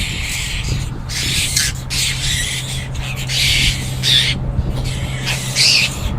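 A group of apostlebirds calling in repeated harsh, rasping bouts, over a low steady hum.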